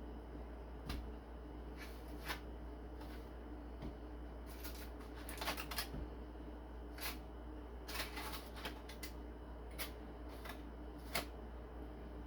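Scattered small clicks and rustles of hands handling things at a kitchen counter, irregular and a few seconds apart, with a cluster near the middle, over a steady low hum.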